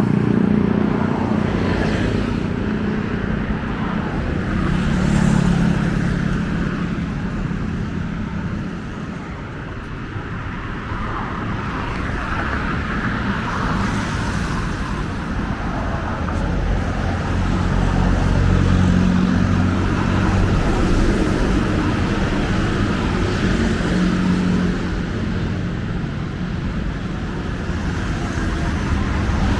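Busy road traffic: car and motorcycle engines and tyre noise running continuously, growing louder and easing off as vehicles pass every few seconds.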